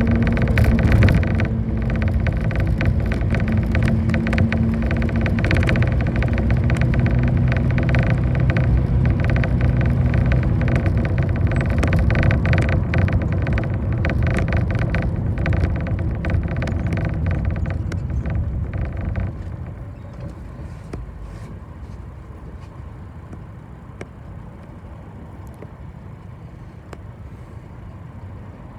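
City bus running, heard from inside the cabin: engine hum and road noise with many short clicks and rattles. About two-thirds of the way through, the noise drops sharply to a quieter, steady hum.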